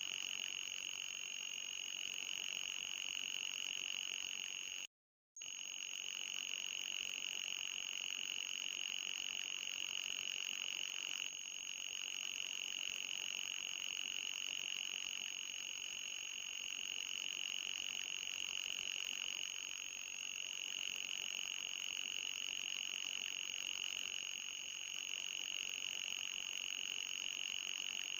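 Synthesized high-pitched electronic tone played as a mosquito-repellent sound, a steady whine with a fainter, higher tone above it over a light hiss. It cuts out to silence for a moment about five seconds in, then resumes.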